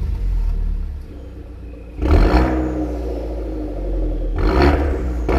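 Hyundai Genesis Coupe's exhaust, fitted with a variable-valve muffler and a straight-through resonator, running at a low rumbling idle with sharp throttle blips: one quick rev about two seconds in that falls back to idle, then two more short revs near the end.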